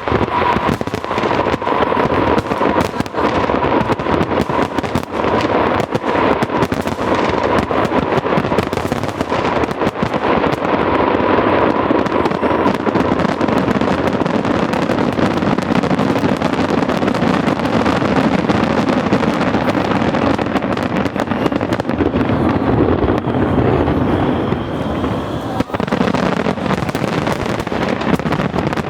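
Aerial fireworks going off in a dense, continuous barrage of bangs and crackles, with a steady high tone through the first half.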